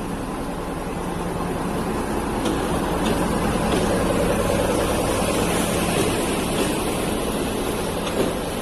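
Metre-gauge diesel train rolling in along the platform, the locomotive's engine running under the rumble of the wheels. The sound grows louder over the first few seconds, with a few clicks and one sharp knock near the end.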